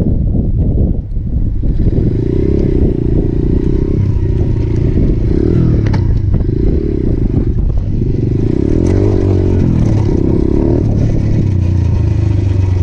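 A 125cc single-cylinder motorcycle engine running under way, its pitch rising and falling several times with the throttle.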